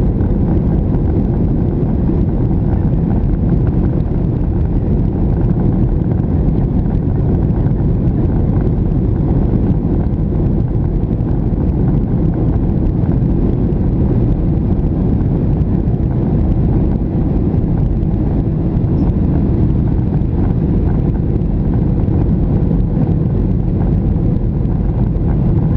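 Steady low cabin rumble of a Boeing 737-700 airliner in flight on approach, from its engines and the airflow over the fuselage, heard from inside the cabin.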